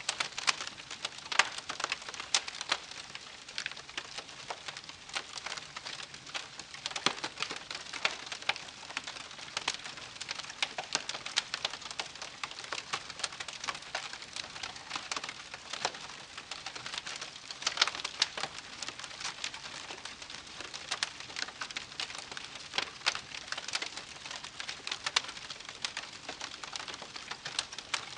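Wood campfire crackling: a dense, irregular run of sharp pops and snaps over a soft, steady hiss.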